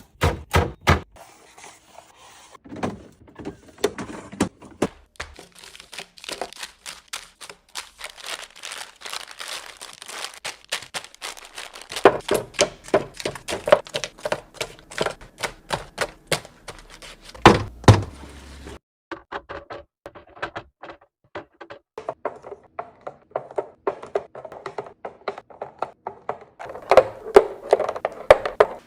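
Fruit and containers being handled and set down while restocking a fridge: a close, busy run of small clicks, taps and thunks, with louder knocks about twelve and seventeen seconds in.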